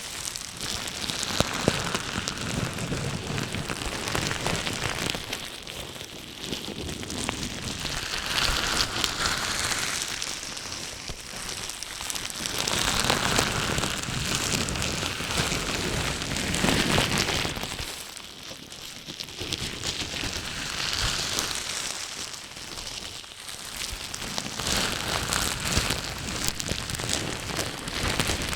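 Close-miked crackling and rustling noise, dense like rain, that swells and fades every few seconds.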